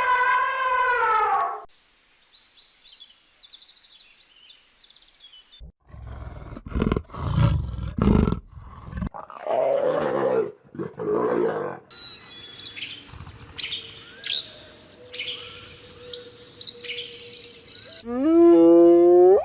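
A string of different animal calls: a drawn-out pitched call at the start, then low, rough, roar-like calls about six seconds in, then a run of short bird chirps, and a rising pitched call near the end.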